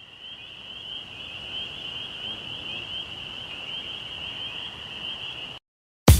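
A high, steady, pulsing trill from a chorus of calling animals, cutting off suddenly near the end, just before loud electronic music with drums comes in.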